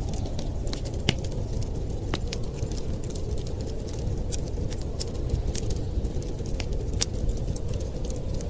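Wood fire crackling with irregular sharp pops, a few louder than the rest, over a steady low rumble of blizzard wind.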